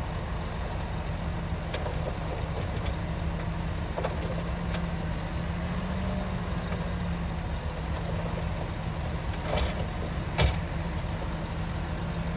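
Heavy diesel earthmoving machinery running steadily. A few short metallic knocks come through, the loudest about ten seconds in.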